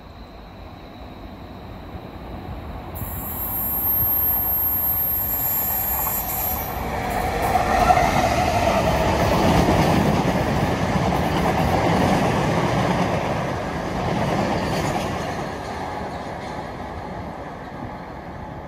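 Colas Rail Freight Class 70 diesel-electric locomotive, a V16 diesel, hauling a train of cement tank wagons past: the engine and the rumble of the wagons' wheels on the rails build over the first few seconds, stay loud through the middle, then fade as the train draws away.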